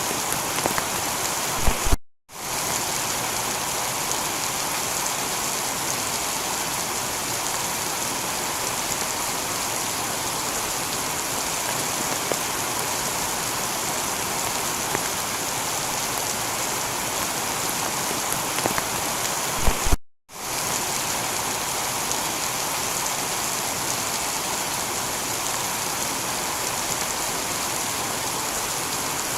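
Heavy rain shower falling on a tiled roof as a steady, dense hiss. The sound cuts out to silence for a split second twice, near the start and about two-thirds of the way through.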